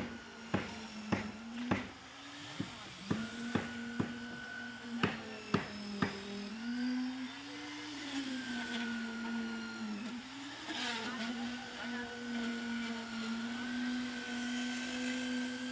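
A machine motor at a concrete slab pour runs with a steady hum that dips and rises in pitch a few times. Through the first six seconds a series of sharp knocks sounds about every half second.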